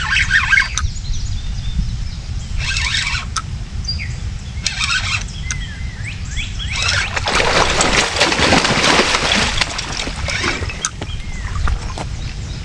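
Water splashing in bursts as a hooked catfish is hauled in at the river's edge, with a longer, louder stretch of splashing about seven seconds in. Birds chirp now and then over a steady low rumble.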